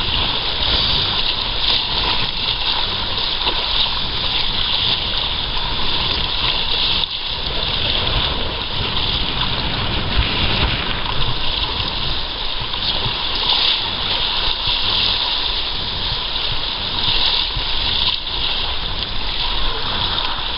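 Water rushing and splashing steadily along a sailing kayak under way, with no let-up.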